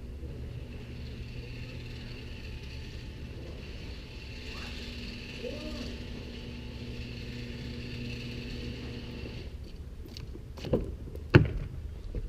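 Steady low rumble of a car on the move, with two sharp clicks a little over half a second apart near the end.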